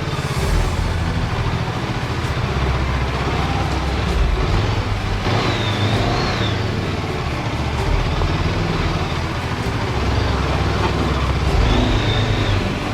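Honda CB500X parallel-twin motorcycle engine running under load, its revs rising and falling unevenly as the bike struggles on a steep dirt trail.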